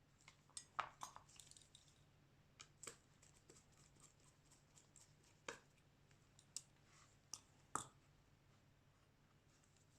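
Faint, irregular small clicks and taps of hand tools against a smartphone's parts during a screen replacement, loudest a little under a second in and again just before eight seconds.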